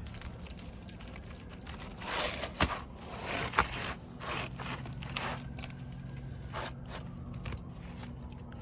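Scraping and a few sharp clicks on a three-tab asphalt shingle roof, as shingles are worked loose to fit a replacement shingle. The loudest scraping and two sharp clicks come about two to four seconds in.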